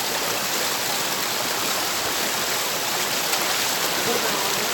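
A mountain river's water rushing steadily, an even hiss.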